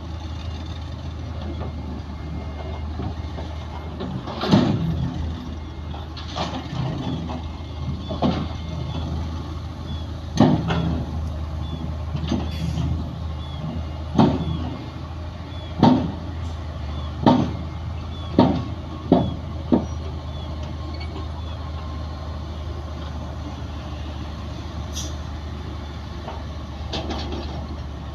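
Heavy diesel earth-moving machinery (bulldozer and dump trucks) running with a steady low engine drone, broken by a string of sharp, irregular clanks and bangs, several in quick succession partway through.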